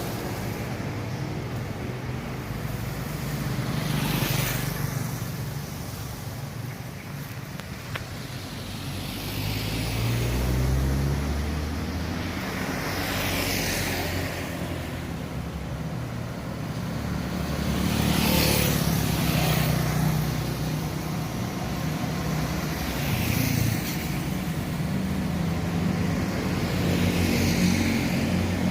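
Road traffic: a run of vehicles passing one after another, each swelling and fading, with an engine note rising in pitch about ten seconds in.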